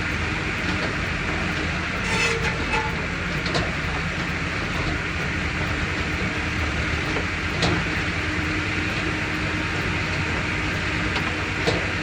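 Engine running steadily as it warms up on a cold morning, with a few short clanks over it.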